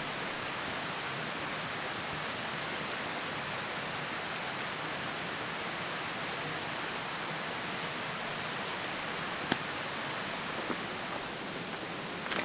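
Steady rushing noise like running water. A thin, high, steady sound joins it a little before halfway and fades near the end, and there is a single sharp click shortly before that.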